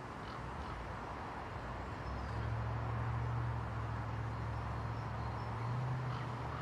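Approaching passenger train, a steady low engine hum that swells about two seconds in and holds.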